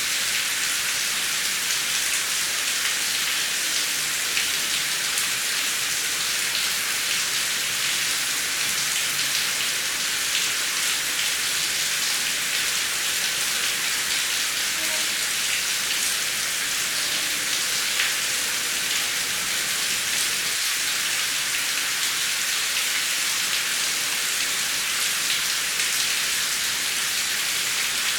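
Steady heavy rain, an even hiss of falling water with fine drop patter.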